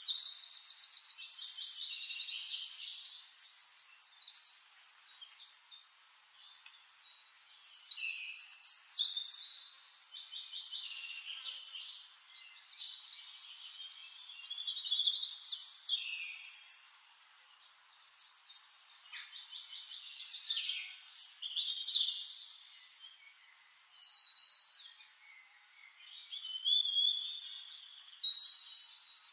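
Songbirds singing: bursts of fast high trills and chirps every few seconds, with short lulls between them.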